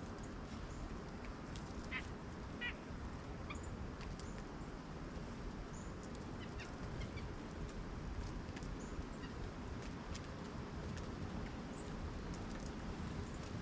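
A few short, harsh bird calls, two of them about two seconds and two and a half seconds in, over a steady low outdoor rumble, with faint high ticks scattered through.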